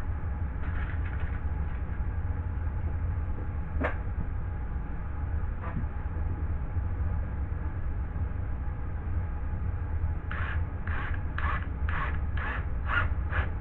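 Steady low hum with a single knock about four seconds in, then from about ten seconds in a run of rhythmic scraping strokes, about two a second, as of a hand tool working drywall.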